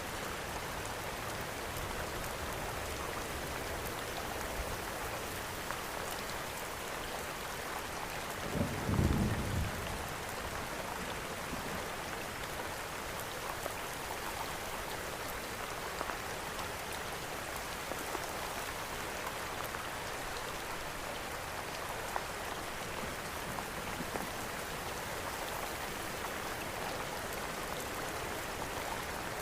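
Steady rain falling, mixed with a fireplace whose fire gives off occasional faint crackles. About nine seconds in, a brief low rumble rises and fades.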